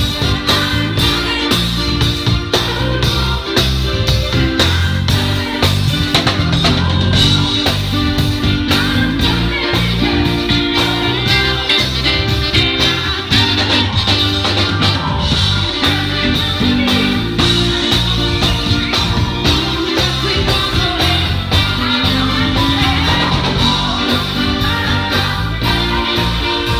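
Live band playing an upbeat song with bass, guitar and drums, with some singing.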